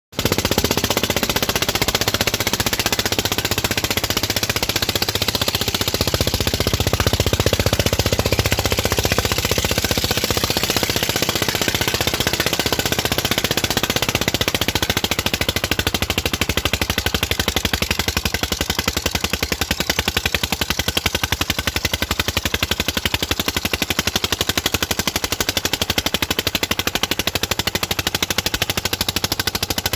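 Tractor's diesel engine working under load while pulling a harrow, with a loud, rapid, evenly repeating exhaust beat.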